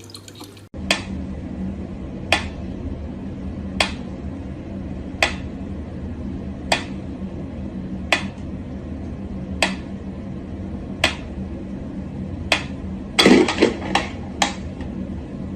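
Sharp clinks repeating evenly about every second and a half over a steady low hum, with a quick burst of louder clattering near the end.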